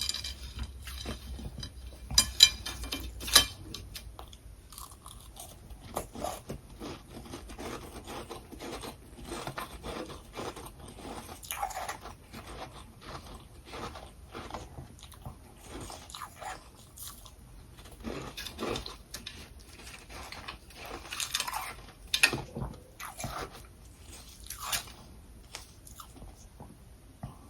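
Close-up crunching and chewing of freezer frost and crushed ice in the mouth, a steady run of crackling bites. The sharpest, loudest bites come a couple of seconds in and again a few seconds before the end.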